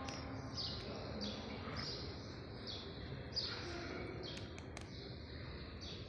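A small bird chirping over and over, about three short, high chirps every two seconds, over faint, steady background noise.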